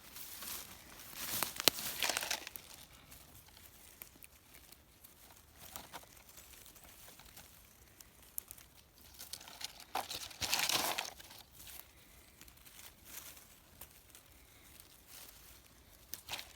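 Rustling and crackling of low forest undergrowth and leaves being handled and pushed through while lingonberries are picked, with a few sharp snaps; louder bursts come about a second in and again around ten seconds in.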